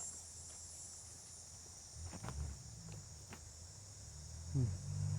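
Steady high-pitched insect chorus of crickets in the woods, with a few faint crackles of brush underfoot and a brief low hum with a falling tone near the end.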